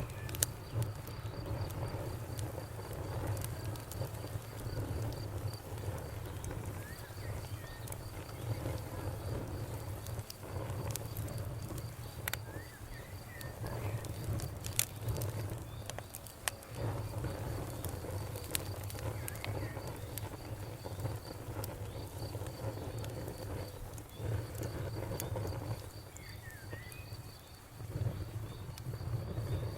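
Campfire burning, with irregular sharp crackles and pops over a low steady rumble. A cricket chirps in a fast, even pulse throughout, breaking off briefly a few times.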